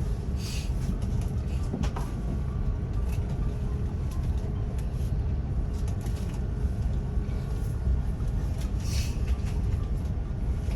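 Airliner cabin noise: a steady low rumble of the engines and air circulation, with faint steady tones above it and a few brief rustles.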